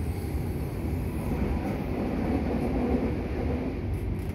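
Running noise inside a Meitetsu 3150 series electric train car under way: a steady rumble of wheels and running gear.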